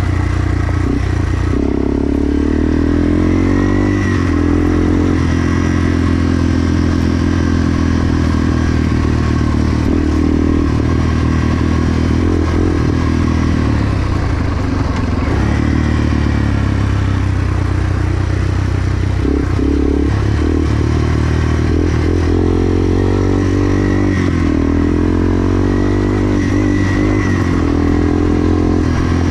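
1987 Yamaha TW200's single-cylinder four-stroke engine running hard while the bike is ridden fast downhill, its revs rising and falling again and again as the rider works the throttle.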